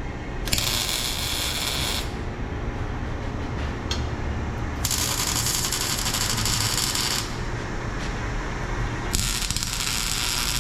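Three bursts of crackling hiss from a welder, each about one and a half to two and a half seconds long, as the new tailpipe is welded onto the exhaust, over a steady low rumble.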